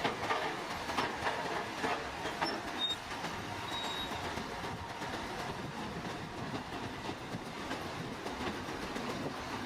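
Heavy tracked earthmoving machine working, its steel tracks clanking over a steady run of engine and rolling noise, with a few sharp knocks in the first few seconds and a brief high squeal.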